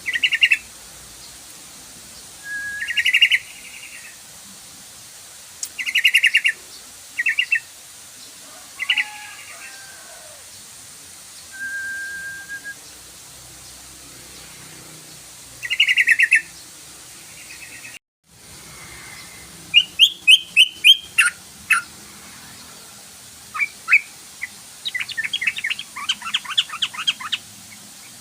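Yellow-vented bulbul (trucukan) calling: short, bubbly chirping phrases every second or two. After a brief dropout about two-thirds of the way in, it turns to faster runs of rapid repeated notes.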